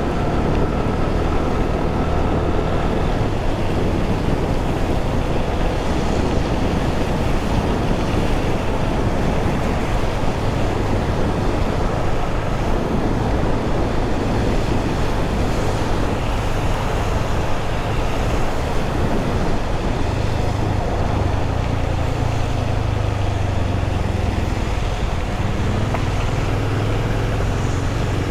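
Yamaha FZ25's single-cylinder engine running under way, with wind and road noise of the ride; the low engine hum shifts in pitch and strengthens in the last few seconds.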